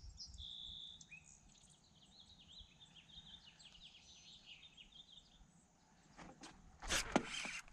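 Faint songbird calling: a short whistle, then a run of quick chirps and trills. A few sharp clicks and rustles follow near the end.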